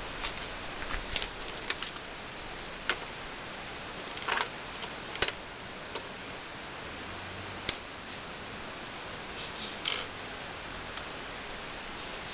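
Scattered clicks, taps and rustles of hands working on a nitro RC car, with two sharp ticks about five and eight seconds in; the engine is not running yet.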